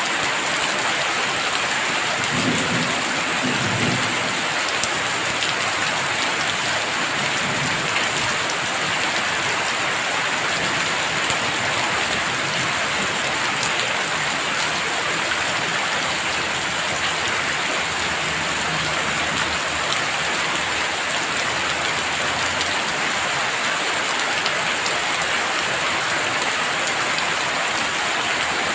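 Heavy rain falling steadily, with a low rumble of thunder about two to four seconds in.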